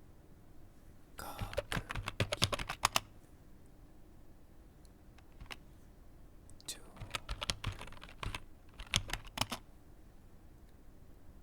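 Computer keyboard typing in two bursts of quick keystrokes, each about two seconds long, a few seconds apart.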